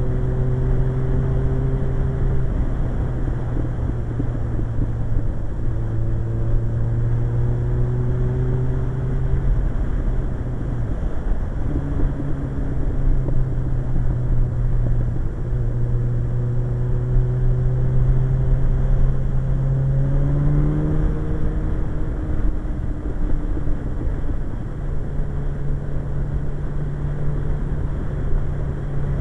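Suzuki GSX-R1100 motorcycle's inline-four engine running at a steady road speed, its note breaking briefly twice, rising about twenty seconds in and settling a little higher near the end.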